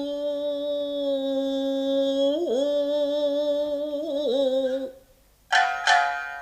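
Nagauta singer holding one long, steady sung note, which then bends into ornamented dips and breaks off. Near the end come two sharp shamisen plucks that ring out.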